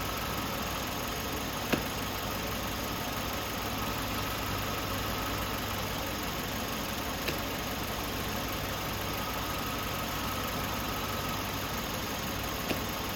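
Hyundai Elantra Touring engine idling steadily with the air conditioning running at full blast while the system is charged with R-134a refrigerant. Three sharp clicks stand out over it: about a second and a half in, midway, and near the end.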